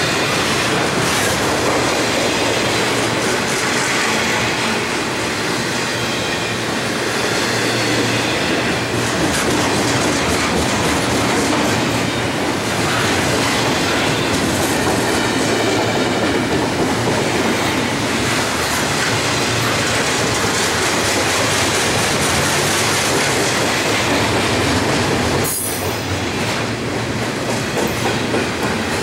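Double-stack intermodal freight cars rolling past at track speed: a loud, continuous rumble and clatter of steel wheels on rail, with a faint high wheel squeal now and then.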